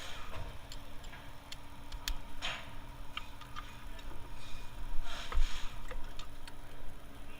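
Irregular clicks, light knocks and a couple of short scrapes of hand tools and engine parts being handled, with a faint steady hum underneath.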